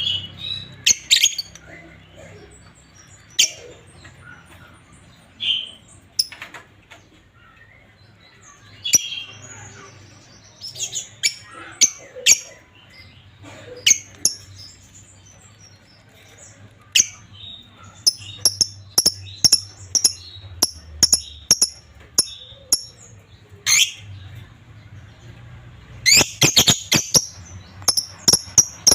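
Pair of lovebirds giving short, sharp chirps and calls scattered through the stretch. In the second half there is an evenly spaced run of chirps, about two or three a second, and near the end a dense cluster of rapid calls.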